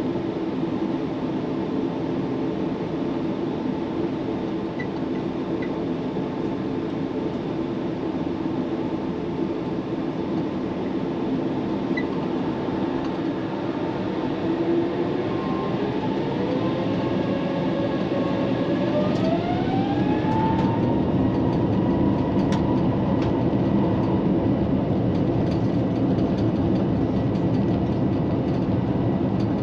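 Airbus A350-1000 cabin noise: a steady rumble, then about halfway through the Rolls-Royce Trent XWB engines spool up to takeoff thrust with a rising whine. The whine levels off a few seconds later into a louder, steady takeoff roar, with a few light clicks and rattles.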